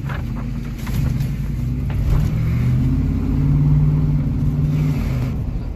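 Vehicle engine pulling away from a stop and accelerating, heard from inside the cabin: a low rumble whose engine note grows louder from about a second in, then eases off near the end.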